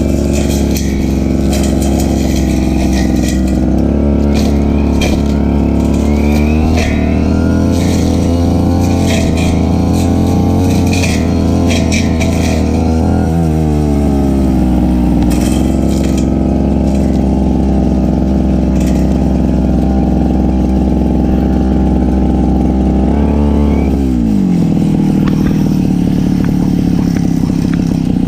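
Stihl FR3001 brush cutter engine running at high speed while cutting grass, with sharp clicks and rattles of the cutting head striking vegetation through the first half. Its pitch sags and recovers a few times under load, and near the end it drops to a lower, idling speed.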